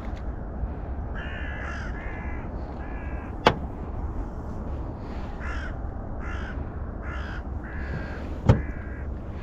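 A bird calling repeatedly, about eight short calls in two runs. Two sharp knocks are the loudest sounds, one in the middle and one near the end, over a steady low rumble.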